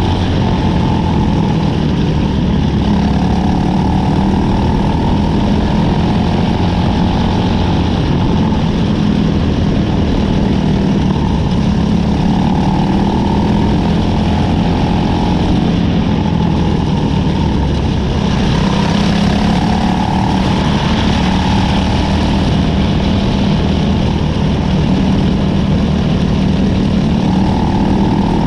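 Engine of a winged cadet-class micro sprint car running continuously, heard from on board, its pitch rising and falling every few seconds.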